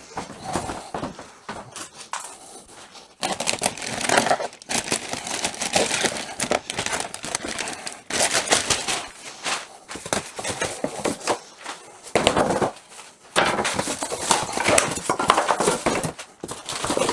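Plastic packaging film being pulled off and crumpled, in irregular crinkling bursts with a few short pauses.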